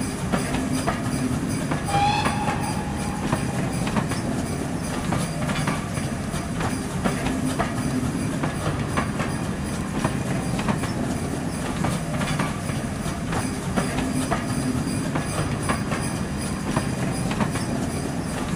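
Train coaches running past on the track, a steady rumble with the wheels clicking over rail joints. A brief high tone sounds about two seconds in.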